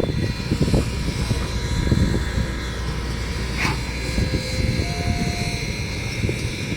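Steam locomotive running at low speed as it comes back to couple onto its train: a steady low rumble, with a brief squeal about three and a half seconds in.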